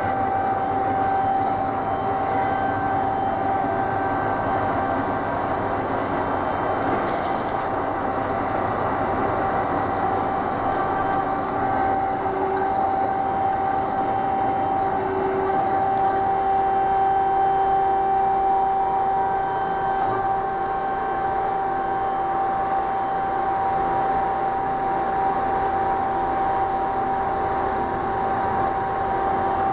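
DoALL C916SA horizontal band saw running, with a steady mechanical drone and a high whine held at one pitch.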